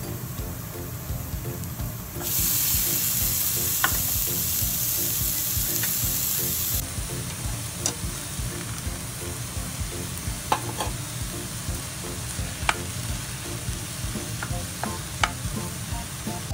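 Minced garlic and onion sizzling in oil in a nonstick frying pan. A much louder hiss starts about two seconds in and runs for some four seconds as the chopped onion goes into the hot pan. A wooden spatula stirs the food, clicking against the pan now and then.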